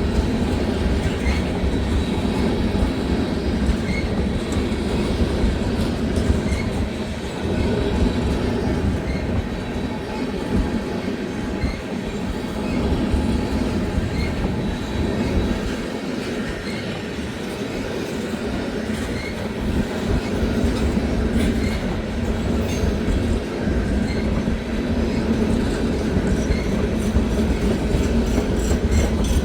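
Freight train rolling past steadily, its cars rumbling and clattering over the rails.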